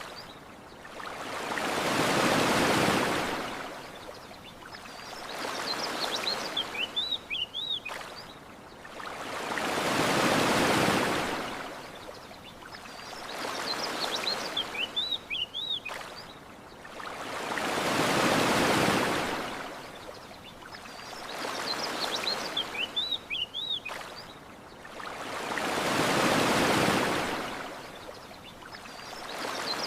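Ocean waves washing onto a shore: the surf sound swells and fades, with a large wave about every eight seconds and a smaller one between. Short bird chirps come back between the waves. The whole pattern repeats exactly on the same eight-second cycle, as a looped recording does.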